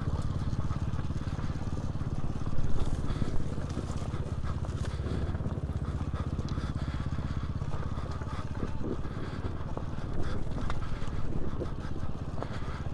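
Dirt bike engine running as the bike is ridden along a single-track trail, briefly louder about two and a half to three and a half seconds in.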